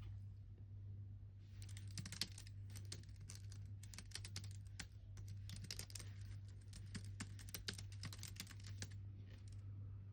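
Typing on a computer keyboard: a quick, irregular run of key clicks starts about a second and a half in and stops near the end, over a steady low hum.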